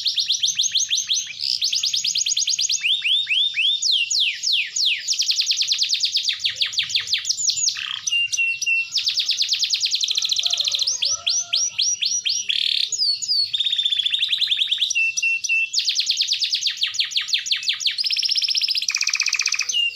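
Domestic canary singing a long unbroken song, switching between fast trills of rapidly repeated notes and runs of sweeping glides.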